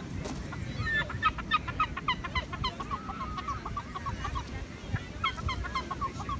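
Gulls calling in a fast run of short, clipped notes, several a second, starting about a second in, with a second run near the end.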